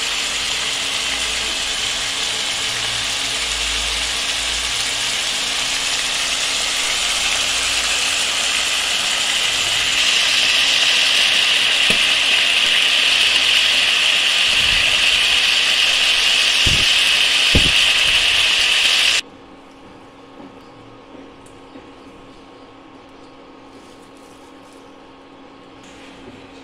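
Chicken pieces sizzling in hot oil in a nonstick pan: a loud, steady sizzle that grows louder about ten seconds in, then cuts off suddenly about two-thirds of the way through, leaving only a faint background with a few light clicks.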